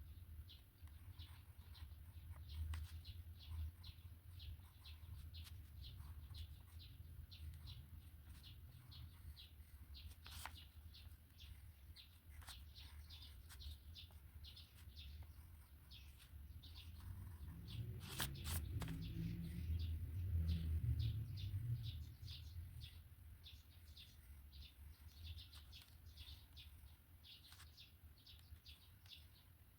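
A drawing pen scratching and squeaking across paper in quick short strokes, two or three a second, over a low rumble that swells for a few seconds past the middle.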